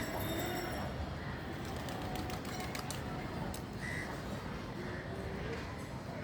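Pigeons cooing faintly over steady background noise, with a run of quick clicks in the middle.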